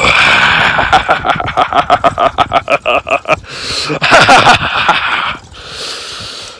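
A man's voice making a loud, rapid cackling laugh that pulses about eight times a second for a couple of seconds, followed by a drawn-out vocal sound.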